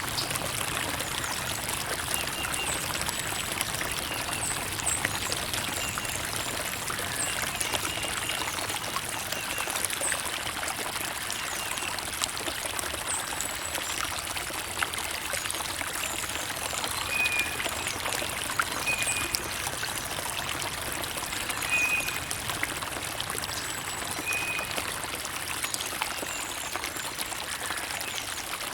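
Running creek water trickling steadily, with a few short high chirps now and then.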